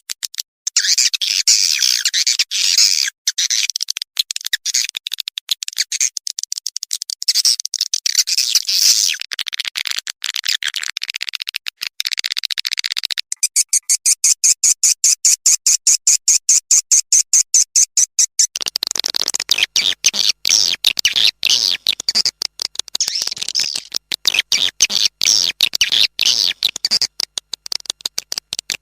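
Swiftlet lure recording: dense, rapid twittering chirps and clicks of swiftlets. In the middle comes a few seconds of fast, evenly spaced pulses, then the chattering returns and sounds fuller.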